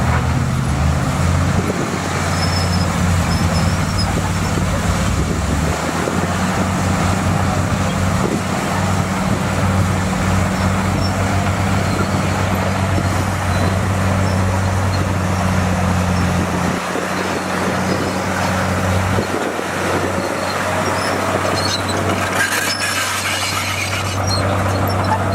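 Bulldozer's diesel engine running steadily at work, its pitch shifting about two-thirds of the way in, with a stretch of higher-pitched mechanical noise near the end.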